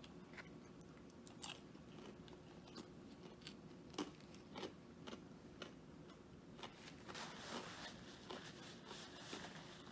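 Quiet chewing and biting of crispy fried food close to the microphone, with scattered crunches that come thicker near the end.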